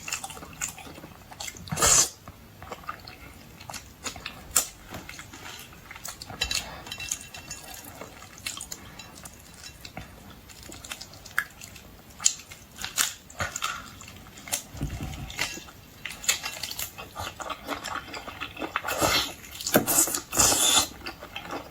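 Close-miked eating of boiled seafood: wet chewing and lip smacking with many short sharp clicks and crackles, louder bursts about two seconds in and near the end.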